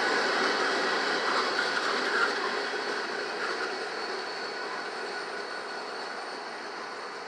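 Norfolk Southern local freight train rolling past, the rumble and rattle of its cars on the rails fading steadily as it moves away.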